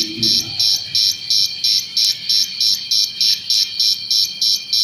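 Electronic cricket-sound circuit (555 timer IC driving a TDA2822 amplifier) chirping from its speaker: short high-pitched pulses repeating evenly about three times a second over a steady high tone, an imitation of a cricket's call.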